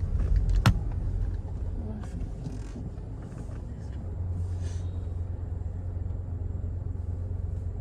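Steady low rumble of a car on the move, with a single sharp knock less than a second in.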